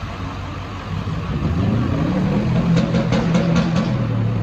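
New York City subway train running: a low motor hum that grows louder about a second in, with a quick run of about six clicks about three seconds in.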